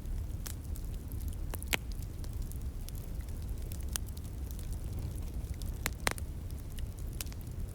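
Wood fire crackling, with scattered sharp pops, two louder ones a little after one and a half seconds and around six seconds, over a steady low rumble.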